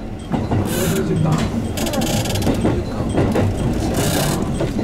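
Running noise of a JR West 221 series electric train heard from inside its front car as it crosses points: a low steady rumble with wheels clicking over rail joints and a few short hissing bursts.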